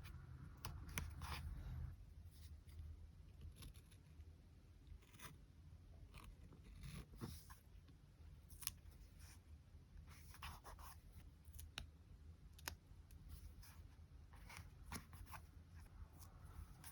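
Quiet, irregular small clicks, snips and paper rustles of hands working paper pieces for a journal collage, over a low steady room hum.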